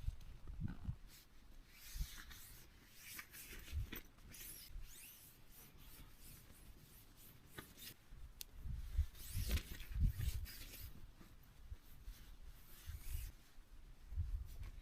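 Soft rustling and rubbing, with scattered scratchy sounds and occasional low thumps, loudest about two-thirds of the way in.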